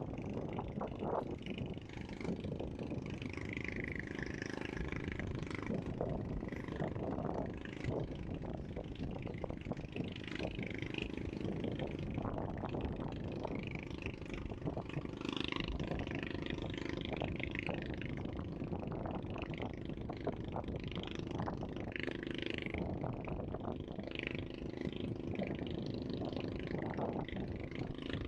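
Seaside ambience: a steady low rumble, with birds calling in short chirps over it throughout and scattered small clicks.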